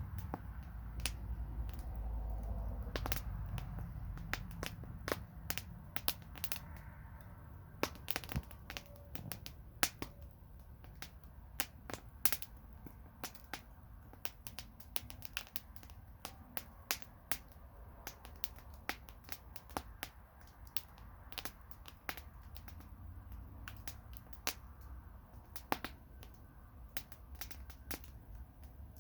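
Campfire crackling: burning wood pops and snaps in sharp, irregular clicks. Under them runs a low rumble that is stronger in the first six seconds or so.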